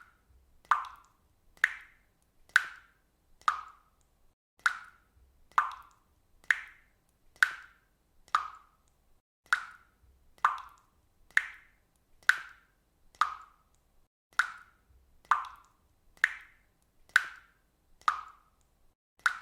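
Water dripping steadily, single drops plinking into water at about one a second in an even rhythm.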